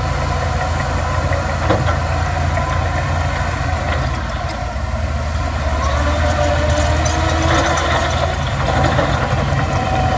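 Heavy earthmoving machinery's diesel engine running steadily with a deep low hum.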